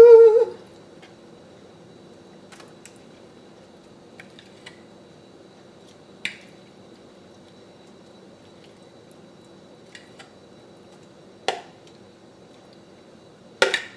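Quiet handling while a sandwich is assembled: a few scattered light clicks and taps, with a quick cluster of sharper clicks near the end.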